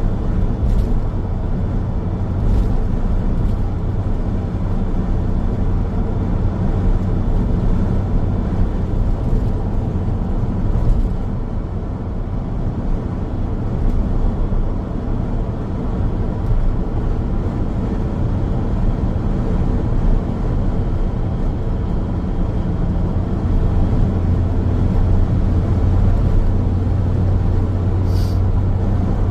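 Steady low rumble of a car driving on the road: tyre and road noise with the engine underneath. A brief high-pitched sound is heard near the end.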